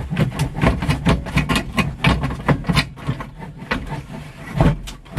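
A busy, irregular run of clicks, knocks and rattles from hand tools and parts being worked under a car's dashboard, several a second.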